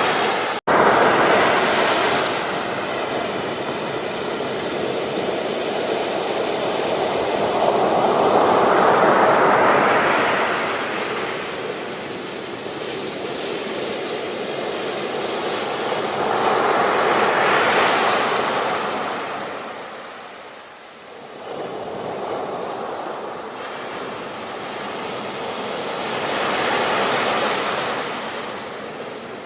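Ocean waves breaking and washing up a beach: a steady rush of surf that swells and fades about every eight to nine seconds. The sound cuts out for an instant about half a second in.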